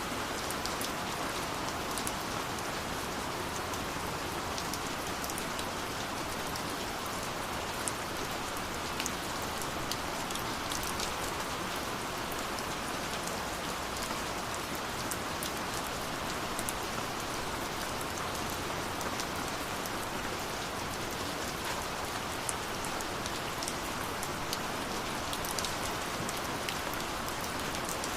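Steady rain falling: a constant hiss with many scattered ticks of individual drops striking.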